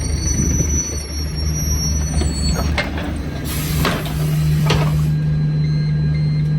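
Alexander Dennis Enviro200 bus heard from inside, its diesel engine running with a low hum under high whining tones. A few rattles and a burst of hiss come around the middle, then a steady, deeper drone sets in.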